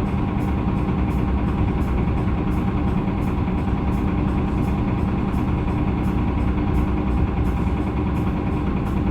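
Hyundai Green City CNG city bus's C6GB natural-gas engine running steadily, a low, even drone.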